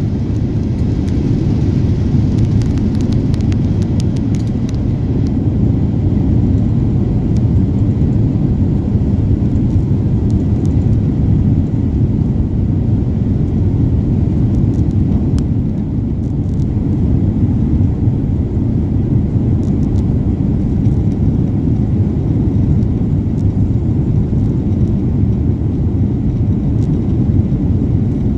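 Cabin noise inside an Airbus A350-900 during takeoff: a steady, loud low rumble from its Rolls-Royce Trent XWB engines and the airframe, with a few faint clicks and rattles in the first few seconds.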